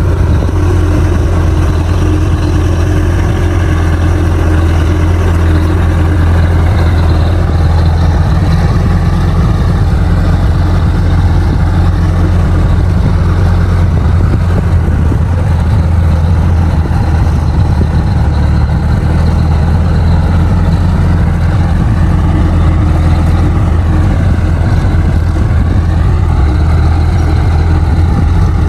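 Bulldozer's diesel engine running steadily with a deep, constant hum, its pitch dipping briefly and recovering about three-quarters of the way through.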